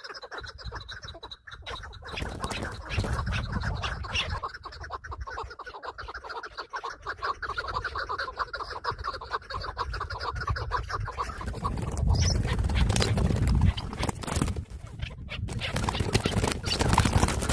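Chukar partridge calling in a fast run of clucking notes, with low rumbling noise growing stronger in the later part.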